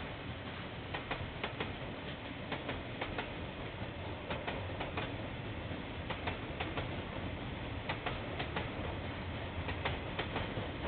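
Train passing, its wheels clicking irregularly, often in pairs, over a steady rumble and hiss, heard through a security camera's microphone.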